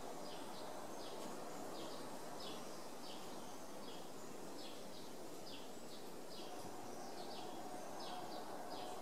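A small bird chirps over and over, short falling chirps about twice a second, over a steady background hiss.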